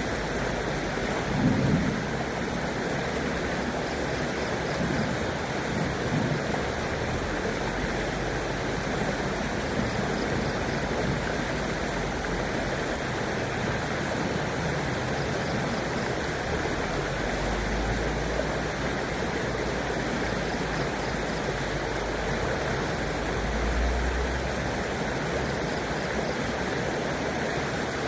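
River water flowing steadily, an even rushing sound, with a brief louder surge about a second and a half in.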